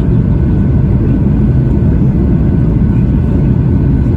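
Steady cabin roar of a Boeing 737-800 airliner on approach, its CFM56 turbofan engines and the airflow heard from inside the passenger cabin as a loud, even low rumble.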